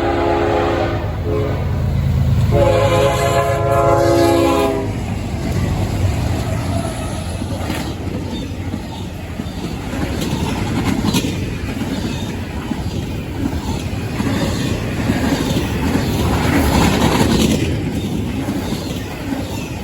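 A CSX freight locomotive's multi-chime horn sounds for the grade crossing: a blast that breaks off about a second in, then a second blast from about two and a half to five seconds in. The intermodal train then runs past, with a steady heavy rumble and the clickety-clack of wheels over the rail joints.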